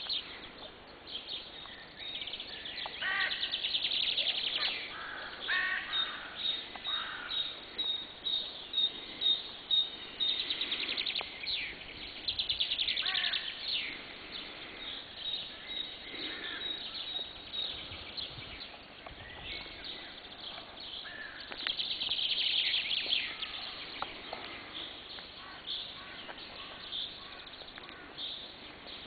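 Dawn chorus of several wild birds singing and calling over each other, including a long run of evenly repeated high notes and several fast trills.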